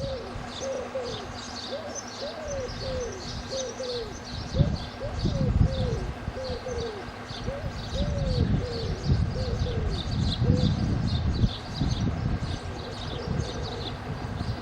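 Birds calling: a long run of short, repeated arched calls with fainter high chirps above them, over a steady faint hum. Wind buffets the microphone in gusts from about four seconds in.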